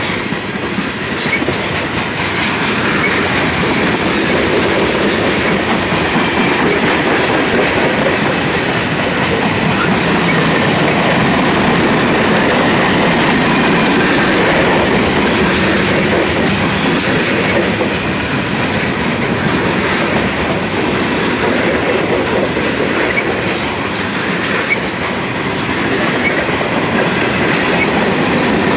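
Freight train cars rolling past at close range: loaded tank cars and covered hoppers with a steady rumble and wheels clicking over the rail joints. A high wheel squeal comes and goes.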